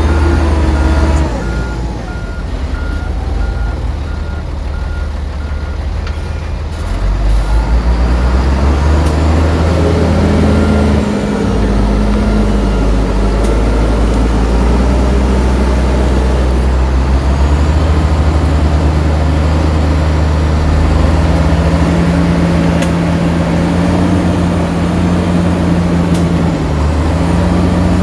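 Heavy diesel earthmoving machinery working a sand pile, engines revving up and down under load. A reversing alarm beeps steadily for about the first six seconds.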